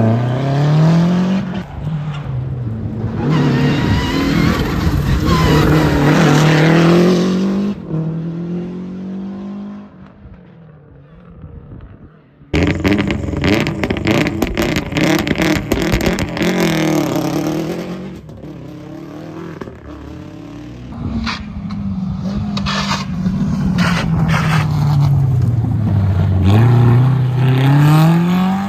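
Historic rally cars at speed, engines revving hard with rising and falling pitch as they accelerate, lift off and pass. It cuts abruptly to another car about twelve seconds in, and a further car revs up steadily near the end.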